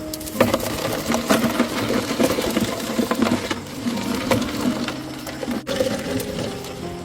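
Fast, dense rattling and clicking of a fish trap full of small crabs being handled, over background music.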